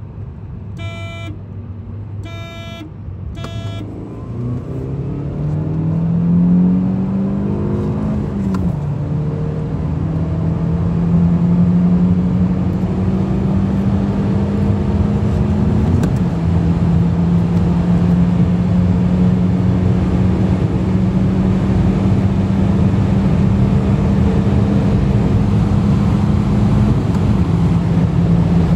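Three short electronic beeps, then a car engine heard from inside the cabin accelerating hard. Its pitch climbs, drops at an upshift about eight seconds in, then holds high and nearly steady over road and wind noise, with brief dips at later shifts.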